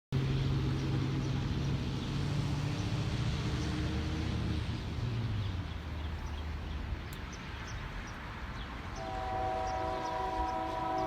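Diesel locomotive engines drone, fading after about five seconds; about nine seconds in, a locomotive air horn begins sounding a steady chord of several notes.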